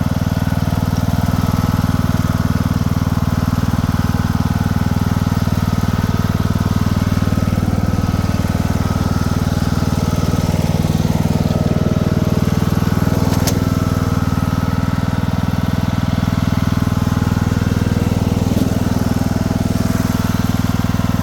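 Craftsman II lawn tractor's swapped-in engine running steadily at a constant speed.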